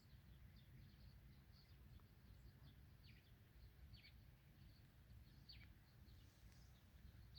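Faint birdsong: scattered short chirps and three brief falling calls, over a steady low rumble.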